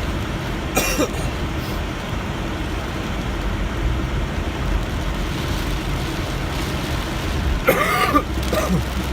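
Steady road and rain noise heard from inside a moving car in heavy rain, with a low engine hum. Two brief sounds break through, about a second in and again near the end.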